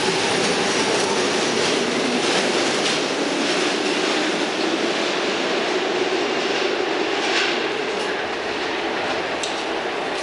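Train of SEPTA M4 subway cars running through the station, a steady rumble of motors and wheels with scattered clacks from the rails, easing off slightly near the end.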